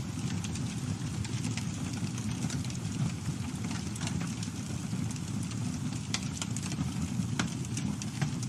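Campfire burning with a steady low rumble of flames and irregular sharp crackles and pops from the wood.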